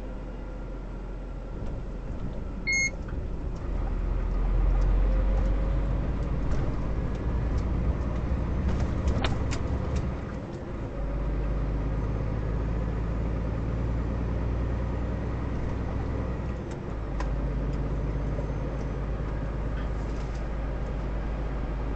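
Vehicle engine and road noise heard from inside the cab as it pulls away through a toll booth and accelerates up to motorway speed, with a short electronic beep about three seconds in. The engine sound dips briefly twice, near the middle and about three-quarters through.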